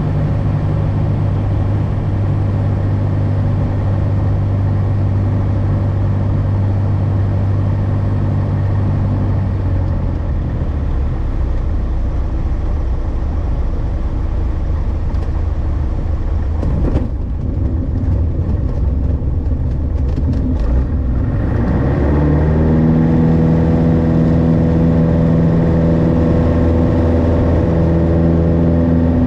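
Light aircraft's piston engine heard from the cockpit: a steady drone, throttled back about ten seconds in, then rising in pitch about twenty-two seconds in as power comes up and holding a higher, louder steady note, the power increase of the go-around in a touch-and-go.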